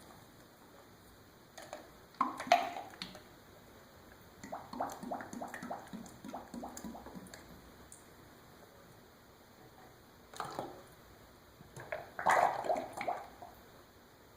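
Drained engine oil being poured from a drain pan into a liter bottle: a run of glugs and splashes, about three or four a second, with knocks and clatter as the pan and bottle are handled.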